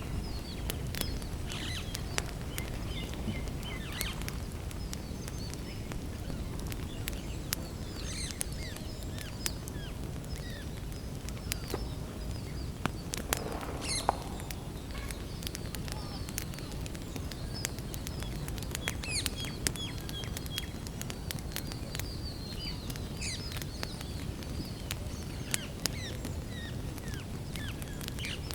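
Wood campfire crackling and popping in sharp, irregular snaps over a steady low rumble, with birds chirping in the background.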